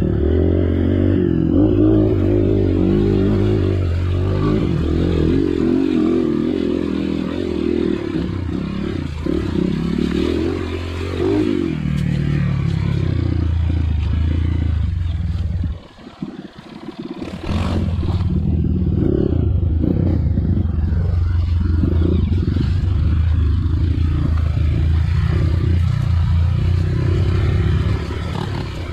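Trail motorcycle engine running and revving up and down, with clatter from the bike over rough ground. About halfway through the engine sound drops away for a second or so, there is a sharp knock, and then it runs steadily again.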